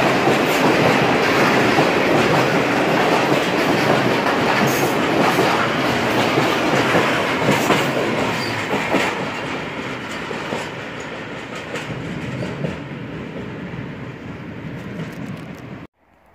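Freight train of open goods wagons rolling past close by, wheels clattering over the rail joints with scattered sharp clicks. The noise slowly fades as the last wagon draws away, and near the end it gives way abruptly to a much quieter background.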